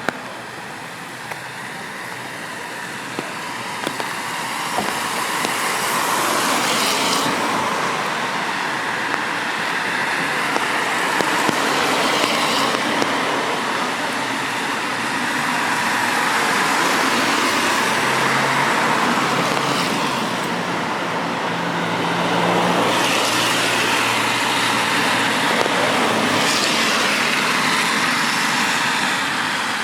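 Cars passing one after another on a wet road, their tyre hiss swelling and fading several times, with an engine hum in the middle of the stretch, over a steady rain hiss.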